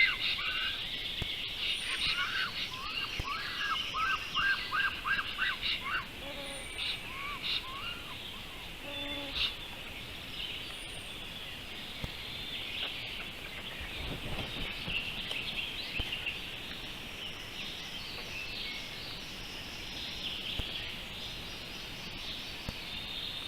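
Small birds chirping: a quick run of short repeated chirps in the first six seconds, then a steady high-pitched chatter with scattered chirps for the rest.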